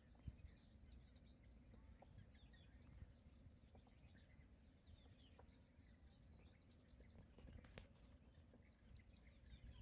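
Faint birds chirping, many quick, short calls overlapping, over a steady high hiss and a low rumble.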